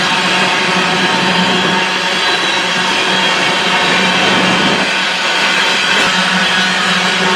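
Empty coal hopper train rolling past: a steady, loud noise of the cars on the rails.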